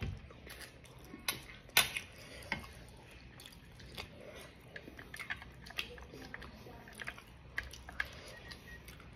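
A person chewing a mouthful of rice, egg and dried fish (bulad), with irregular wet mouth clicks and smacks; the sharpest click comes just under two seconds in.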